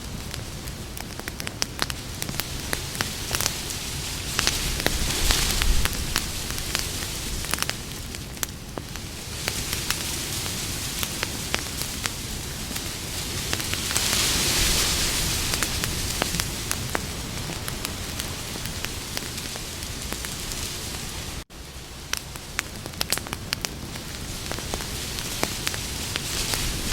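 Campfire burning: a steady hiss with frequent irregular crackles and pops of burning wood, swelling louder for a couple of seconds about halfway through. The sound drops out for an instant about three-quarters of the way through.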